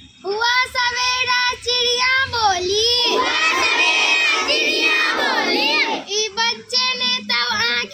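Young children chanting a Hindi rhyme together in a sing-song chorus, with many voices overlapping at times.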